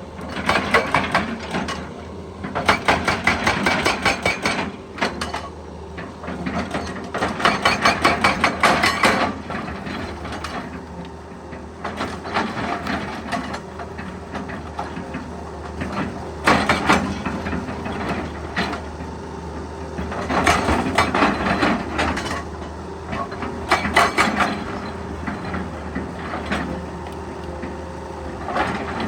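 Excavator's hydraulic breaker hammering rock in several bursts of rapid, evenly spaced blows, with the engine running steadily between them.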